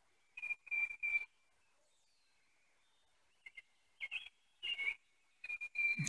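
A songbird singing: short clear whistled notes in quick groups of three, with a few rising chirps between.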